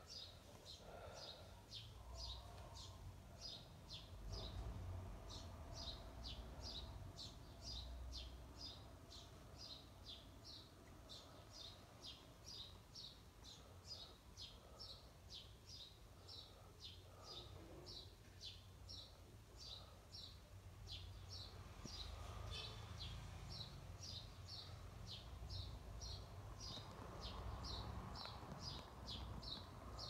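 A bird chirping over and over, short sharp chirps at about three a second, pausing briefly now and then, over a faint low hum.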